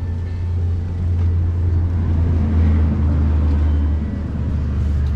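Vehicle under way: a steady low engine and road drone that swells slightly about a second in and dips briefly near the four-second mark.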